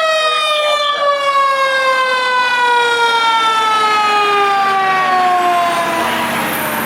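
Fire apparatus mechanical siren winding down, its pitch falling slowly and steadily after a wind-up just before.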